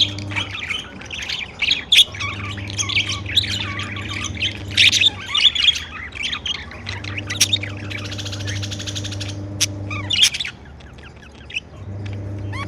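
Pet budgerigars chirping and chattering rapidly, with sharp squawks here and there, over a low steady hum that stops and starts several times.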